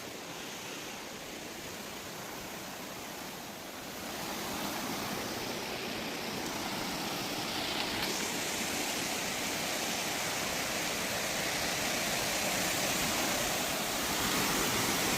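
Mountain waterfall: a steady rush of falling water that gets louder about four seconds in and keeps slowly rising.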